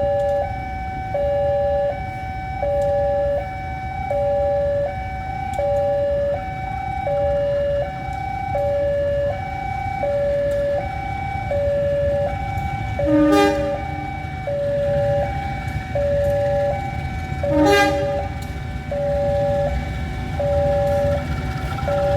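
A two-tone warning alarm sounds continuously, switching between a higher and a lower pitch about every three-quarters of a second, over a steady low rumble of railway machinery. About 13 and 18 seconds in, two short toots cut through.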